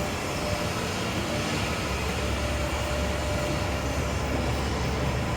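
Steady low rumble of city street noise: engines of passing traffic and machinery, with a faint steady hum.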